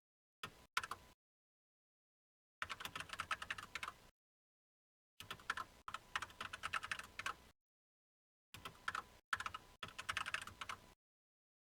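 Typing on a computer keyboard in four bursts of rapid key clicks, each lasting one to two seconds, with short pauses between them.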